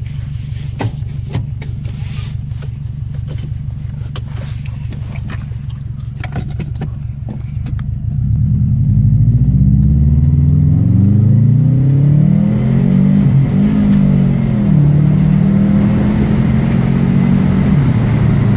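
2005 Subaru WRX's EJ205 turbocharged flat-four, heard through a Godspeed cat-back exhaust. It runs steadily at low revs at first, then pulls hard from about eight seconds in, getting louder. Its note climbs and drops back several times as the automatic gearbox shifts up.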